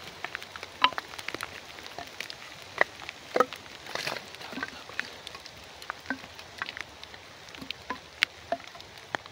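Small fire of dry split kindling catching between logs, crackling with irregular sharp snaps over a steady light hiss.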